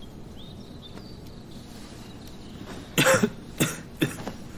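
A person coughing three times in quick succession, starting about three seconds in, the first cough the loudest.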